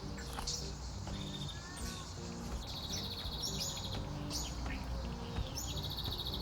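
Woodland birds calling: short sharp chirps and two rapid high trills, about two and a half and five and a half seconds in. Under them runs soft background music with a repeating pattern of low notes.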